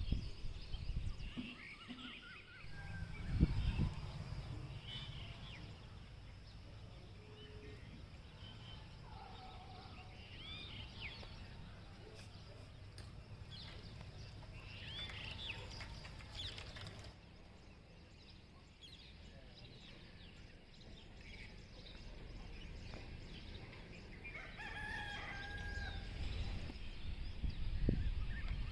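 Rooster crowing once near the end, among scattered bird calls over a low steady rumble.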